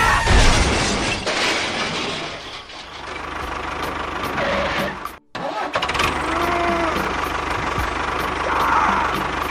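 Small engine running with a dense, steady noise, broken by a sudden cut to silence a little over halfway in before it resumes.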